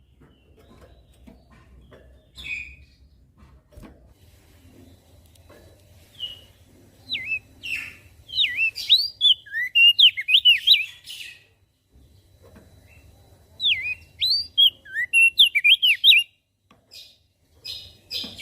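Crested white-eye (opior jambul) singing: two runs of rapid, high, warbling chirps, one starting about seven seconds in and another about thirteen seconds in, with a few single chirps between. A faint low hum lies beneath.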